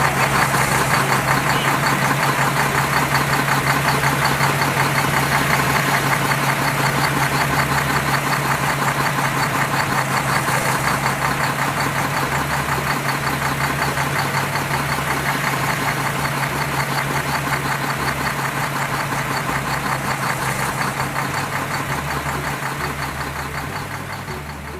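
A truck or tractor engine running steadily with a fast knocking beat, getting gradually quieter near the end.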